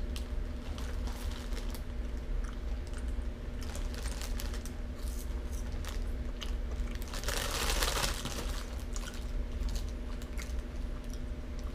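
A person chewing crunchy corn puffs, with scattered crunches, and a brief burst of noise about two-thirds of the way through.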